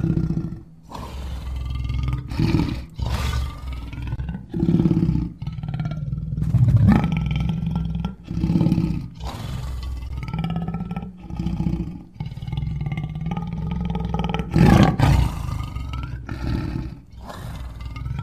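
Lion roaring: a series of deep calls repeating every second or two, the loudest about three-quarters of the way through.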